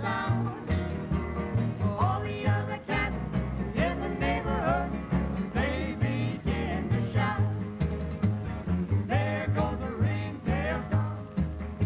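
Folk group singing a lively song with acoustic guitar strumming and a steady, pulsing bass line.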